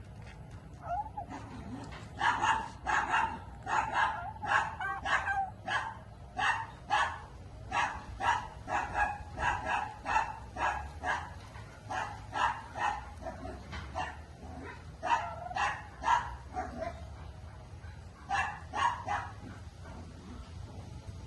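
A dog barking over and over in quick short barks, about two a second, with brief pauses between runs.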